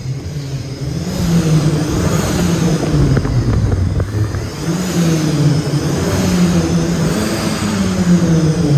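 Sports car engine accelerating hard, the revs climbing and then dropping back at each gear change, several times over.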